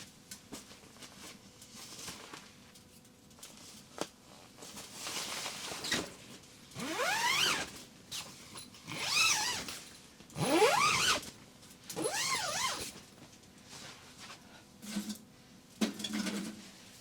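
A zipper pulled in four or five strokes, each a rasp that climbs in pitch, with a few soft knocks and handling sounds around them.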